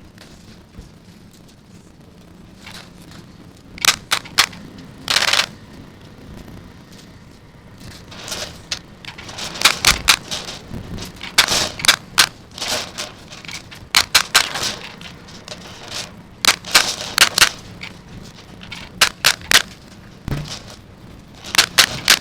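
An irregular series of sharp clicks and knocks from hand construction work on the chicken-wire and tin build, often in quick clusters of two to four, with a few longer scraping or rattling noises between them.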